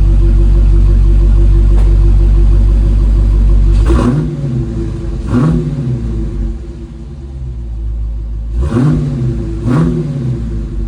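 Dodge Challenger Scat Pack's 392 Hemi V8 running at a steady loud fast idle just after a cold start. About four seconds in it drops to a lower idle, and it is then revved in four quick blips, two pairs, each rising and falling in pitch.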